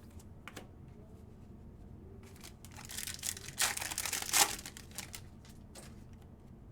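A foil wrapper of a Select football card pack being torn open and crinkled, with about two seconds of tearing and crackling in the middle. A few light clicks of cards being handled come before and after it.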